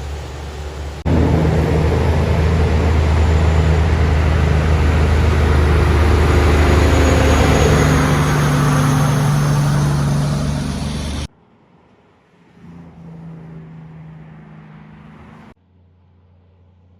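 A motor vehicle's engine running steadily and loud, with a low hum, cutting off abruptly about eleven seconds in. A much fainter steady hum follows.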